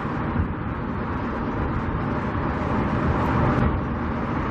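Wind buffeting the microphone with a fairly loud, uneven rumble, over steady distant traffic noise and a faint steady hum.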